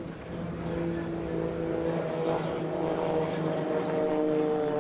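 Extra 300 aerobatic planes' piston engines and propellers droning steadily, growing louder as the pair approach for a crossing pass.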